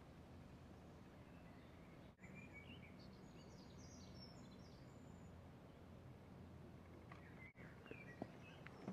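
Faint small birds chirping in short scattered calls, about two seconds in and again near the end, over a low steady hum; otherwise near silence.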